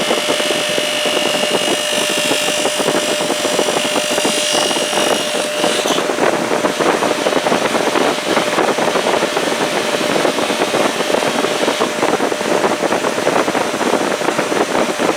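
Electric bench polisher running steadily with a buffing wheel spinning, a constant motor hum under a dense whirring rush. A higher-pitched whine over it cuts off about six seconds in.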